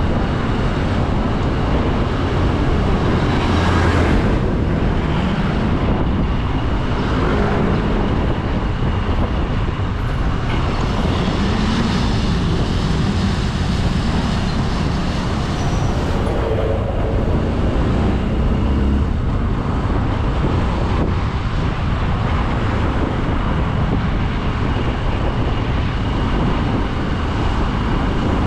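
Motorcycle riding on the road: the engine running with steady road and traffic noise, picked up by an action camera.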